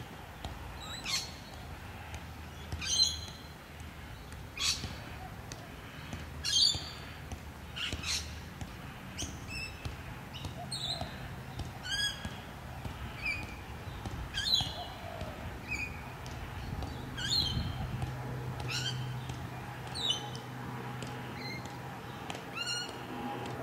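A bird calling repeatedly, a short harsh call about every one to two seconds.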